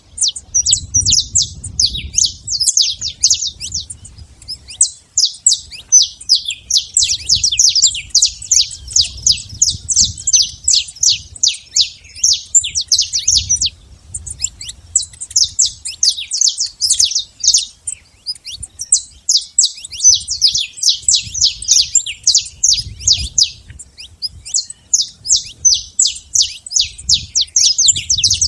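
Saffron finch singing: long runs of rapid, high chirps in phrases, broken by short pauses about 14 and 24 seconds in. A faint low rumble sits underneath.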